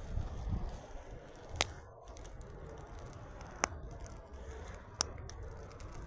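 Campfire crackling, with three sharp pops spaced a second or two apart, over a low rumble.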